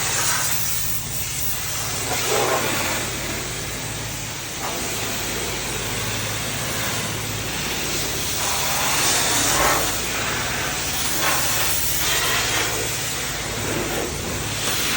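Self-serve car wash high-pressure wand spraying water onto a car: a steady hiss that swells and eases as the jet moves over the bodywork.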